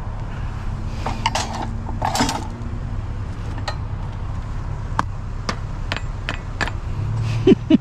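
Pieces of scrap metal being handled: light metallic clinks and a scrape, then a string of sharp separate clicks and knocks, over a steady low hum.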